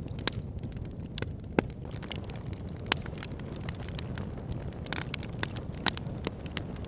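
Wood fire burning in a fireplace: steady crackling over a low rumble of flames, with about five louder sharp pops at irregular moments.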